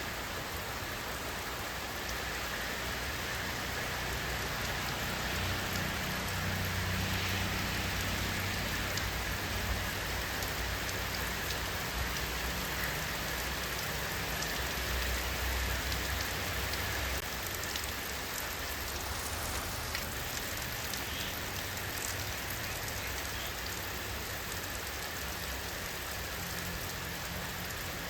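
Steady rainfall pattering on surfaces, with a low rumble that swells a few seconds in and eases off about two-thirds of the way through.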